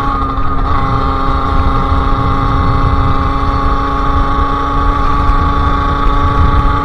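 Sherco SM-R 50's 50cc two-stroke engine running through a KRM aftermarket exhaust at a steady, high-pitched drone while riding, with a low rumble underneath.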